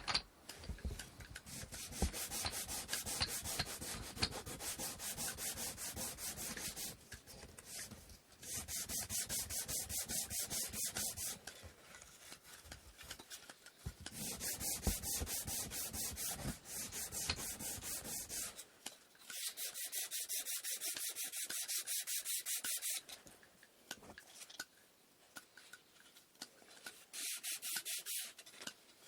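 Sandpaper rubbed by hand over wooden inkle loom parts in quick, even back-and-forth strokes. The sanding comes in spells of a few seconds with short pauses between.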